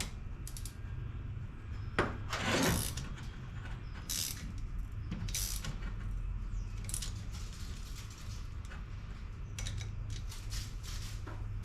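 Scattered clinks and rattles of metal tools or parts being handled, a few sharper knocks among them, over a steady low hum.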